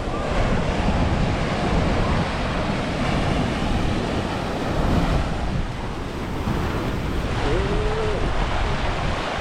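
Ocean surf washing onto a sandy beach, steady throughout, with wind buffeting the microphone.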